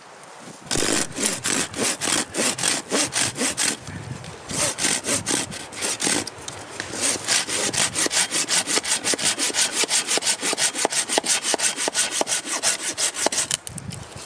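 Hand saw cutting through dry deadwood in quick, even back-and-forth strokes, about four a second, in three bouts with short pauses about four and six and a half seconds in.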